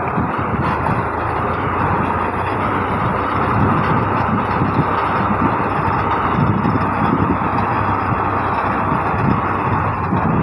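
Fiat Al-Ghazi tractor's diesel engine running steadily under work, a loud continuous rumble that does not change in pace.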